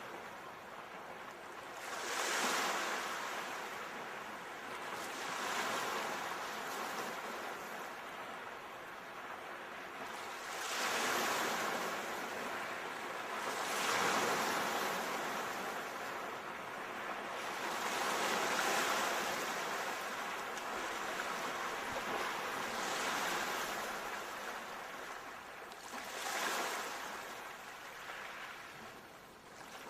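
Ocean waves breaking and washing up on the shore, one surge of surf every few seconds, each swelling and then ebbing away.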